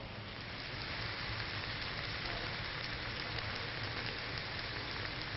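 Beef and vegetable stir fry sizzling steadily in a hot wok.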